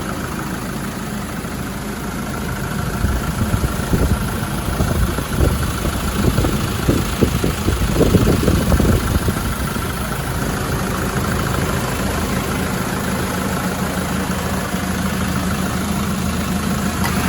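The 2.4-litre Puma TDCi four-cylinder diesel engine of a high-mileage 2007 Land Rover Defender 90 idling, with the air compressor cutting in and out. The note turns rougher and a little louder from about three seconds in, then settles to an even idle after about ten seconds.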